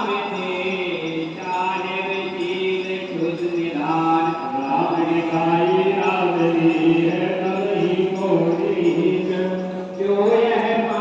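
Chanting in long, held notes that glide up and down over a steady low drone, with a short pause just before the end.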